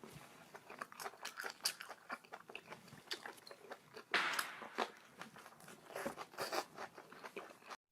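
Crunching and chewing of crisp food close to the microphone: a quick, irregular run of crisp crunches, with one louder, longer crunch about four seconds in.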